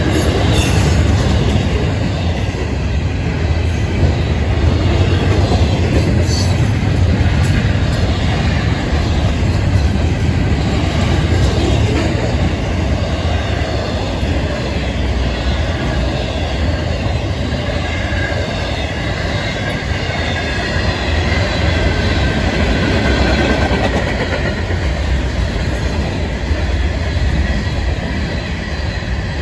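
Florida East Coast Railway freight cars (container well cars, trailer flatcars, then rock hoppers) rolling past: a steady rumble of steel wheels on the rails with clattering.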